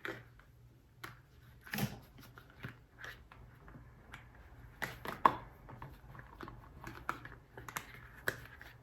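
Small plastic items and their packaging being handled: scattered light clicks and rustles, the sharpest a little over five seconds in.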